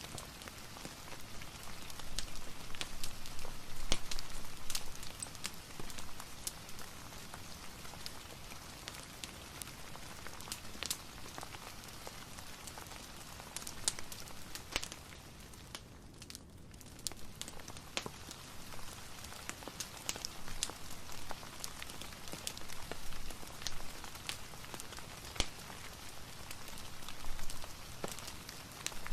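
Steady rain hiss mixed with a fireplace's scattered sharp crackles and pops. The rain hiss drops away briefly about halfway through.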